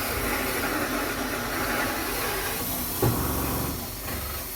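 Power drill driving a TCT hole saw through wood, a steady cutting noise with a short knock about three seconds in.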